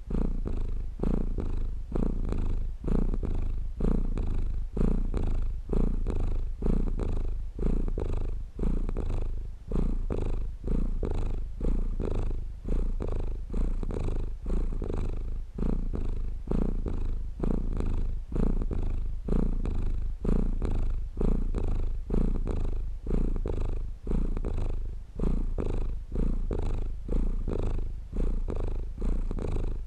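Domestic cat purring steadily, close up: a low rumble that swells and dips in an even rhythm of about one breath-cycle a second as the cat breathes in and out.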